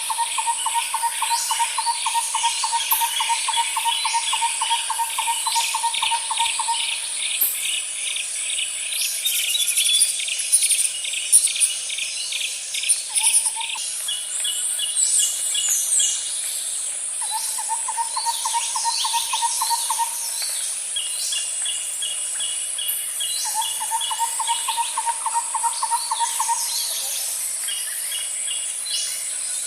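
Outdoor nature ambience of insects and birds: a constant high insect buzz and fast pulsed cricket-like trills, with scattered bird chirps. Trains of rapid low-pitched pulses lasting a few seconds recur, stopping and starting again several times.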